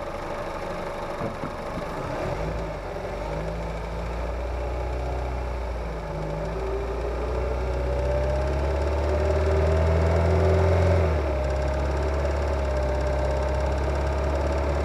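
Kia Ceed's G4FG 1.6-litre four-cylinder petrol engine, heard close up from under the bonnet, pulling with the revs climbing for about five seconds, then dropping back suddenly and running on steadily. The engine is cold, the state in which the owner hears a knock under acceleration that goes away once it warms up.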